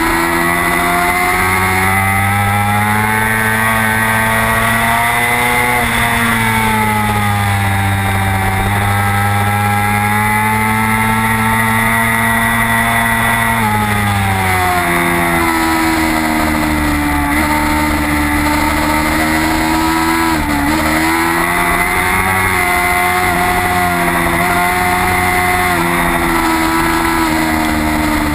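Racing motorcycle engine at high revs, heard from onboard the bike with rushing wind noise. The engine pitch holds high and slides slowly up and down, falls steeply about halfway through, and dips briefly about two-thirds in before climbing again.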